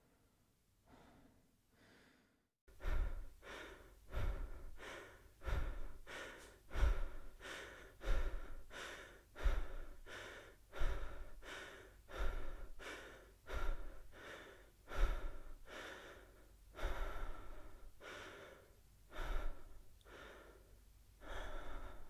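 A person breathing hard and fast through the mouth, out of breath after running: a loud heavy breath about every second and a half, with quicker in-and-out breaths between. Before it, in the first two seconds or so, there is faint slow breathing.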